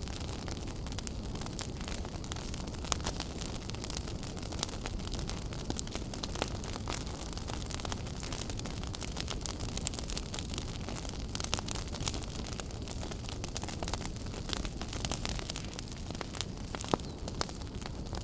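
Wood fire burning in a fireplace, crackling steadily with frequent small pops and snaps over a low rumble of flame, a few louder pops standing out.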